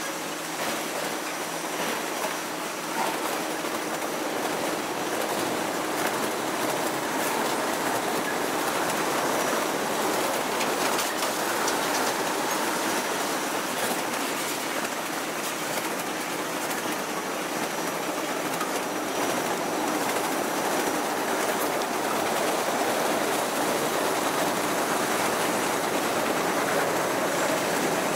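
Freight cars of a long freight train rolling past at steady speed, their wheels clicking over the rail joints.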